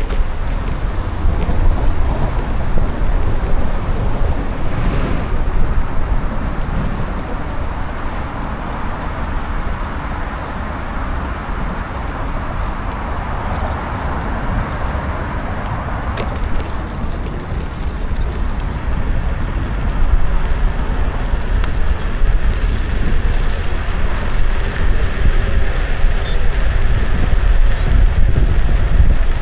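Wind rushing over the microphone and tyre and road noise from a Kukirin G2 electric scooter being ridden along at speed.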